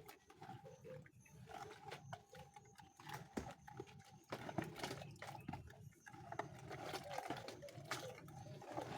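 Farm animal noises mixed with many irregular clicks and knocks.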